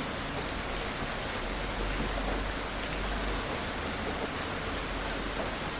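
Steady gentle rain falling, a continuous even patter with scattered individual drops and no thunder.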